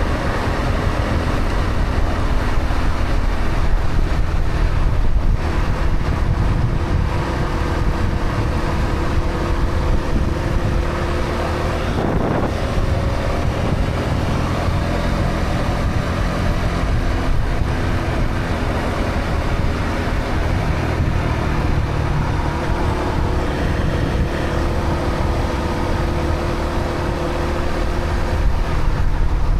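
Honda CB125R's single-cylinder four-stroke engine running through its stock exhaust under way, its pitch rising and falling gently, with wind rumbling on the microphone. A brief knock about twelve seconds in.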